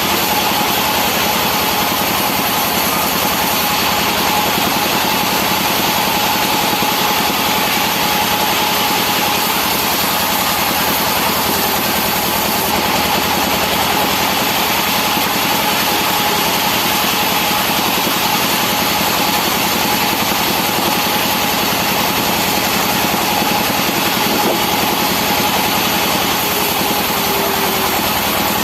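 Sawmill saw and its engine running steadily while cutting timber, with a constant tone over an even mechanical noise that does not let up.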